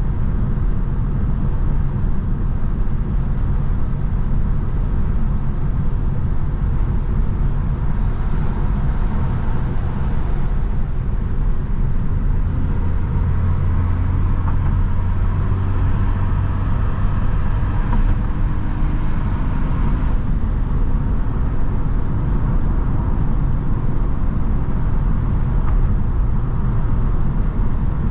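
Mercedes-AMG C43 driving at a steady cruise: a constant low engine and exhaust drone over road and tyre noise, the low hum growing stronger for a few seconds midway.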